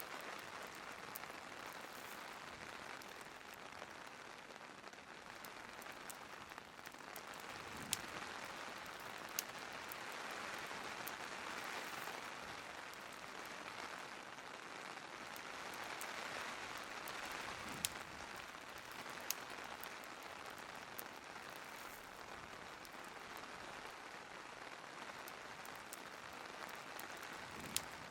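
Steady rain, swelling and easing slightly, with a few sharp pops from a crackling fireplace.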